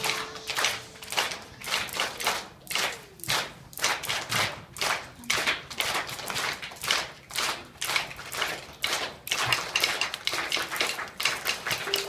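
Hands striking repeatedly in sharp claps or slaps, about two a second, coming faster and closer together near the end.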